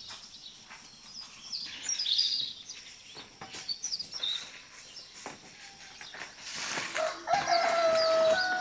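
Small birds chirping, then a rooster crowing: one long call beginning about seven seconds in.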